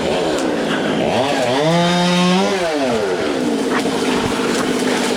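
Two-stroke chainsaw engine revved up from idle about a second in, held at high speed briefly, then let back down to a steady idle.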